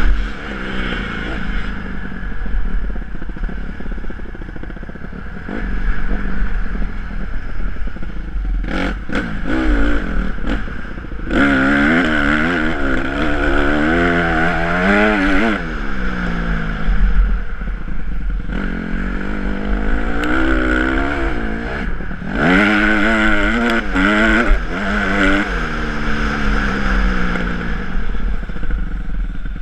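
Honda CRF150R four-stroke motocross bike engine being ridden hard, its pitch rising and falling again and again as the throttle opens and closes through the gears, loudest in two long pulls about a third and three quarters of the way through. A steady low rumble and rattling clatter from the bike run underneath.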